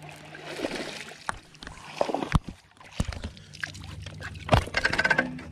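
Handling noise on a fishing kayak as a freshly caught bass is brought aboard: scattered clicks and sharp knocks against the hull, the loudest in the second half.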